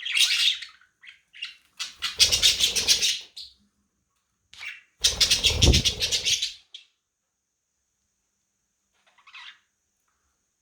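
Budgies squawking and flapping their wings: a sharp squawk at the start, then two bouts of rapid wing flapping of about a second and a half each, and a faint chirp near the end.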